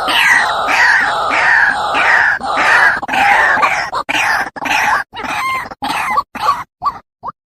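A bird calling harshly and loudly, several calls a second in a fast run, breaking into shorter separate calls with gaps about two thirds of the way through.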